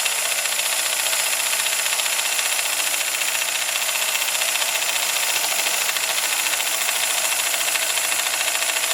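Small MSS live-steam side tank locomotive running: a rapid, even chuffing from its oscillating cylinders over a steady hiss of steam, with steam leaking from a badly sealed sight glass O-ring.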